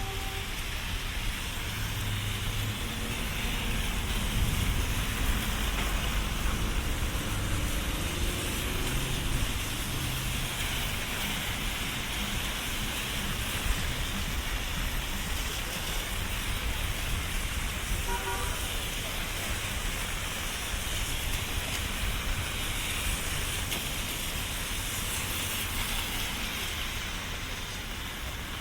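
Wet city street in the rain: a steady hiss of rain and tyres on wet pavement, with engine rumble from traffic that swells a few seconds in as a vehicle passes. A short car-horn beep sounds about two-thirds of the way through.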